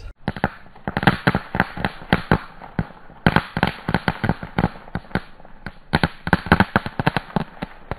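Small fireworks strapped to a thrown boomerang crackling in rapid, irregular pops, several a second, in clusters with short lulls about three and five seconds in.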